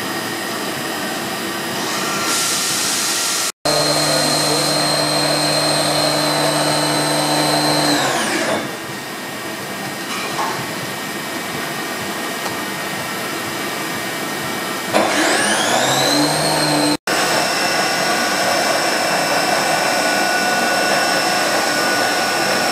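MAHO MH 600 W CNC toolroom mill running: a steady motor whine that winds down about eight seconds in and winds back up about fifteen seconds in, over a constant machine hum. The sound drops out for an instant twice.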